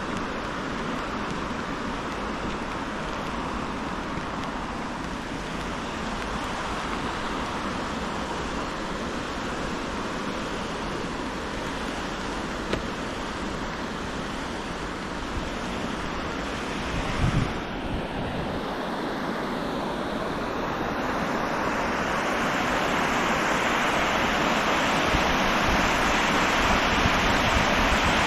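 Steady rush of flowing river water, growing louder over the last several seconds, with one brief low thump a little past halfway.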